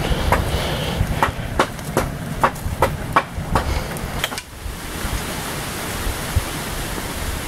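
A quick series of sharp knocks, about two or three a second, over low wind rumble on the microphone; a little past halfway the knocks stop and a steady hiss remains.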